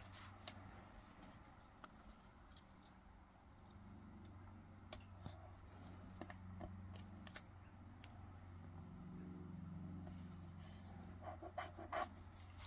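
Quiet snips and small clicks of paper being cut with scissors and handled, scattered irregularly, with a cluster of sharper clicks near the end over a faint steady low hum.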